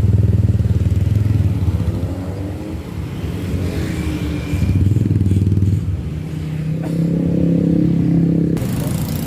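Motorcycle engines running close by as street traffic, louder in the first second and again about five seconds in.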